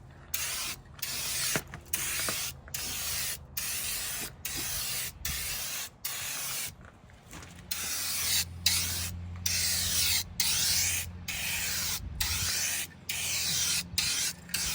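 Aerosol spray-paint can with a turbo spray tip hissing in short bursts, about one a second, as coats of paint are laid on a truck's body.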